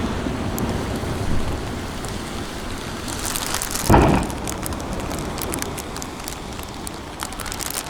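Fireworks shells bursting: one loud boom about four seconds in, over low rolling rumbles and echoes, with a scatter of sharp crackles in the second half.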